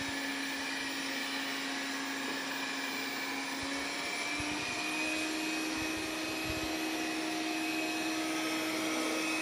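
Robot vacuum cleaner running steadily: an even motor hum with a high whine over a rushing hiss, its pitch stepping up slightly about halfway through, with a few faint low knocks.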